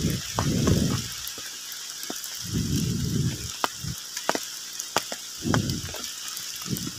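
Steady rain falling on foliage, a constant hiss with scattered sharp ticks of drops, and a few short low rumbles.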